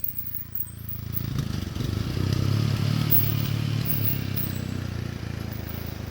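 Small off-road motorcycle engine passing on a dirt trail, growing louder for about two seconds, then slowly fading.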